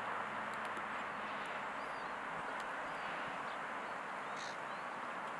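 Steady outdoor background hiss with small birds giving short, scattered chirps throughout.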